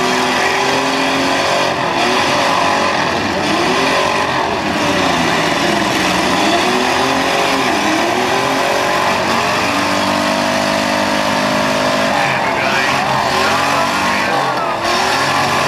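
Demolition derby cars' engines revving hard together, their pitches rising and falling over and over as the cars accelerate and back off. A few short knocks stand out in the din.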